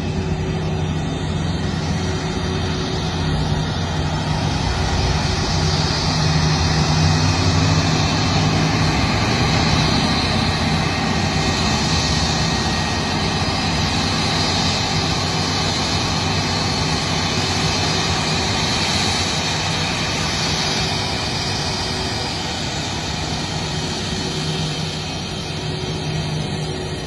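Jet aircraft engines running as a steady rumble with a low hum, swelling over the first half and easing off again later.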